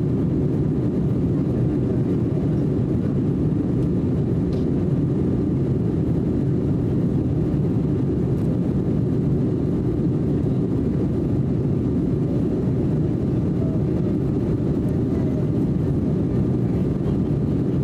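Steady low rumble of a jet airliner heard from inside the passenger cabin: engine and airflow noise, even and unchanging throughout.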